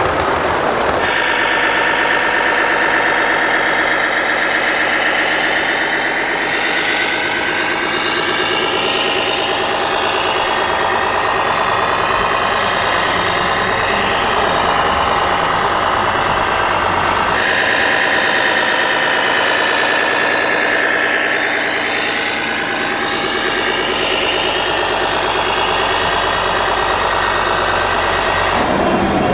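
1/14-scale RC construction machine running with a steady engine-like drone, its tone changing abruptly about a second in and again about halfway through.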